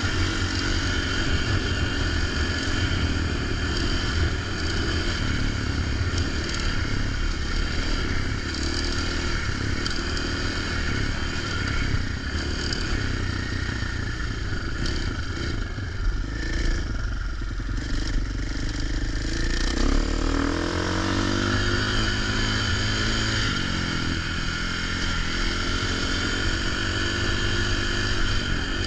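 450 dirt bike's engine running under way, its pitch rising and falling with the throttle, with wind noise over it.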